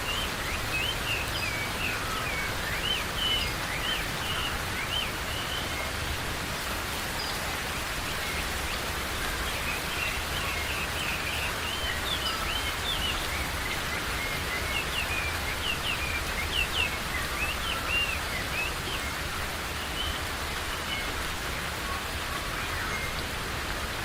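Steady rain falling in a forest, with birds chirping and whistling over it in quick short notes, busiest near the start and again in the middle.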